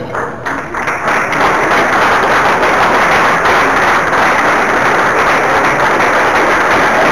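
An audience applauding: dense clapping that builds up over the first second or so, then holds steady.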